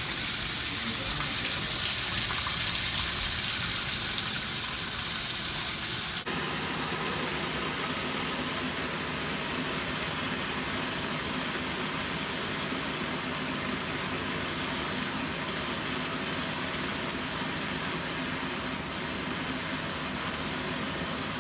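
Water rushing into a Kenmore/Whirlpool washing machine as it fills. About six seconds in the sound cuts abruptly to a steadier running noise with a low hum.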